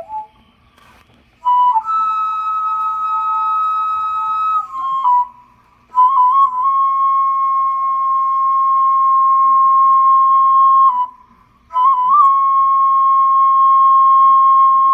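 A flute playing slow, long held notes, three phrases each opening with quick grace-note flicks, with short breaths between them about five and eleven seconds in.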